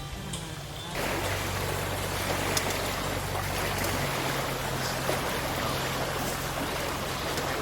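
A stream of running water flowing steadily, setting in about a second in, with a few faint clicks over it.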